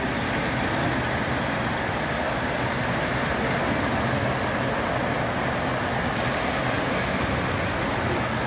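Model trains running on a miniature railway layout: a steady, even running noise of wheels and motors on track that does not change.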